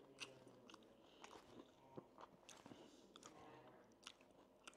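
A person chewing and biting fried food close to the microphone: faint, scattered crunches and wet mouth clicks.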